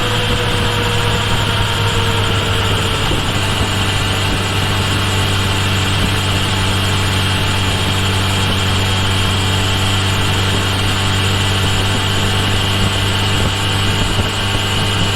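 Kawasaki Ninja H2 SX's supercharged 998 cc inline-four engine running steadily at low revs, picked up by a microphone mounted at the rear turn signal.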